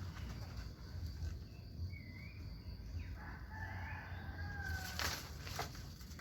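A rooster crows once, a drawn-out call starting about three seconds in that falls away at its end, over a steady low hum. A few sharp clicks or rustles follow near the end.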